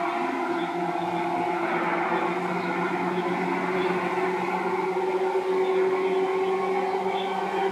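Seibu 2000 series electric train running, heard from inside the carriage: a steady low motor hum over the rumble of the wheels on the rails.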